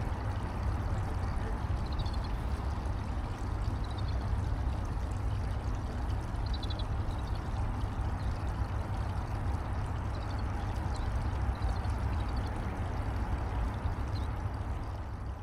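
Steady rush of running water with a low rumble beneath it. Faint, short, high bird chirps come every couple of seconds over it.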